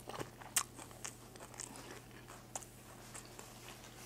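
Faint biting and chewing of fast food: scattered soft crunches and mouth clicks, the sharpest about half a second in.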